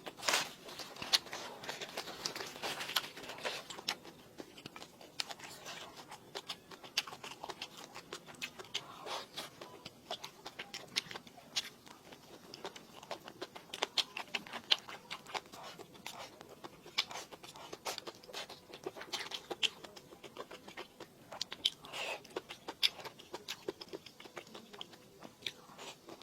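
Close-up eating sounds: irregular biting, chewing and small crunches and clicks, with the mouth near the microphone.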